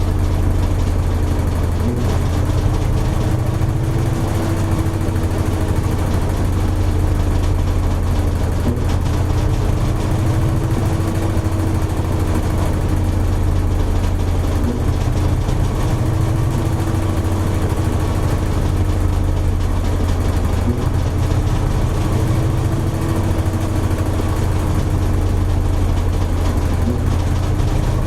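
Toshiba AW-42SEE4(S) fully automatic washing machine running steadily, with a strong low hum and a tone above it that wavers gently up and down every few seconds.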